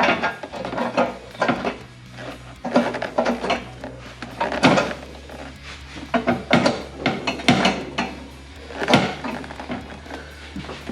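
Irregular metal clunks and knocks as a stainless steel aftermarket exhaust header is pushed and wiggled against the cylinder-head studs, its flange holes still too tight for it to slide on. A steady low hum runs underneath.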